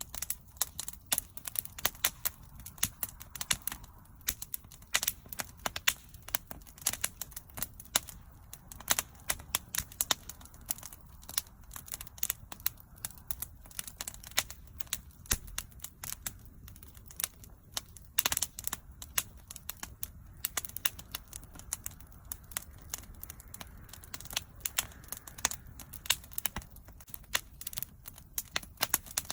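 Wood bonfire crackling, with dense irregular snaps and pops over a low, steady rumble of the burning fire.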